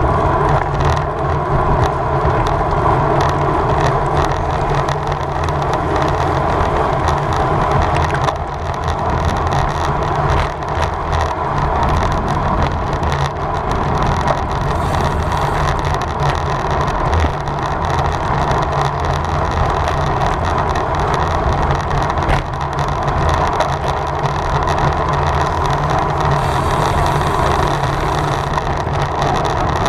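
Steady wind rush over the microphone with road and tyre noise from a road bicycle ridden at race speed.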